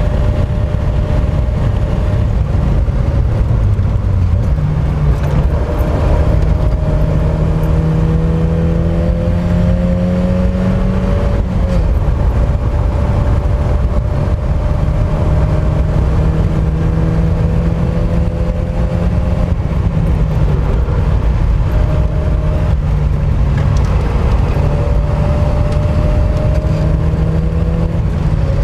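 Mk1 Mazda MX-5's four-cylinder engine running hard on a race circuit, its pitch climbing slowly and dropping back about twelve seconds in and again around twenty seconds, then climbing once more, over a loud steady rumble.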